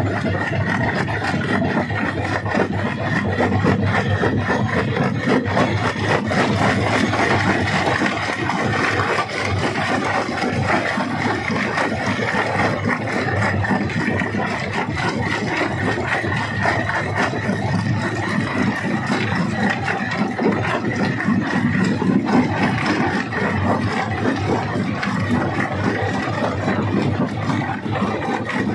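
Stone crusher running under load, with rock rattling and cracking continuously over the steady drone of the machine.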